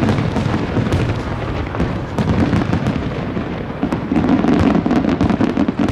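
Fireworks display: a steady barrage of booms and crackling from many shells bursting, with a dense run of crackles in the last couple of seconds.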